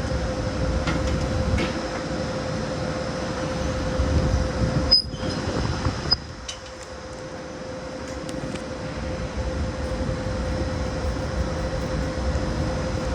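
Electric passenger train at the station platform: a low rumble with a steady electric hum, and two sharp clicks about five and six seconds in.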